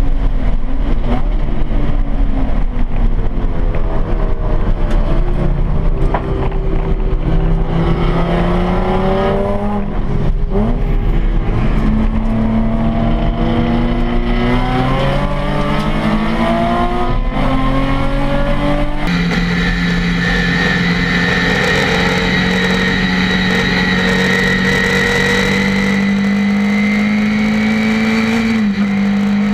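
Racing Nissan 350Z's V6 engine heard from inside the cockpit under hard acceleration, revs climbing and falling, with sharp drops in pitch at upshifts about a third of the way and just past halfway through. About two-thirds in, the sound changes suddenly to a steadier race-car engine note held at high revs, rising slowly.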